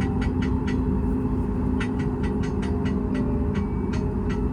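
Steady low cabin hum of a Boeing 737 MAX 8 on the ground with its engines idling, broken by runs of quick light clicks, about five a second, near the start and again from about two seconds in.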